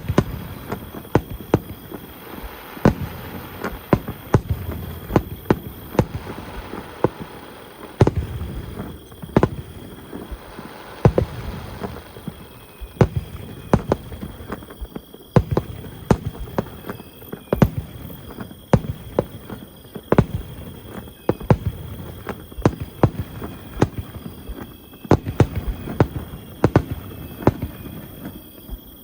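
Aerial fireworks display: shells bursting in quick, irregular succession, several sharp bangs a second, with crackling and rumble between them.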